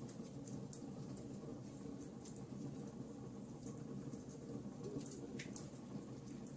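Wood fire burning in a fireplace, crackling: scattered short pops and snaps over a steady low background.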